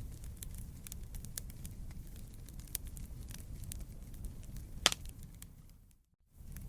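Burning wood crackling, with frequent small snaps and one loud pop about five seconds in, over a low rumble of flames. The sound fades out to silence for a moment near the end, then comes back.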